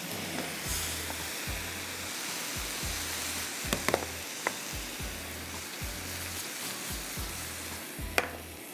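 Food sizzling in hot oil in a pan, a steady frying hiss, with a few sharp clicks about halfway through and near the end. Background music with a low pulsing bass runs underneath.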